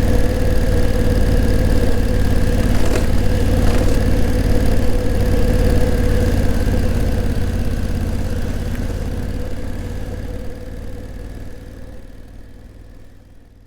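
Honda CRF1000L Africa Twin's parallel-twin engine running at a steady low speed, like an idle. It fades out gradually over the second half.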